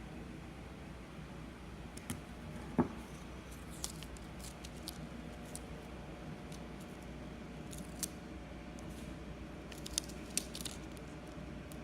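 Small crinkles, clicks and light taps of a sticker sheet being handled and stickers peeled off and pressed onto a wooden toy truck part, with one sharper knock just under three seconds in, over a low room hum.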